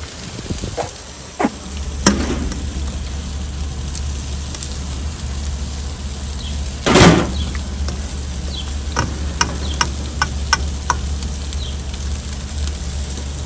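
Food sizzling on a charcoal-and-wood grill, with scattered small pops and crackles and a brief louder burst about halfway through.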